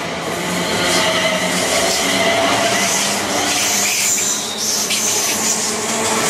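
A train running past at close range: a loud, steady noise of wheels on rail with several steady tones held over it and a few brief clicks.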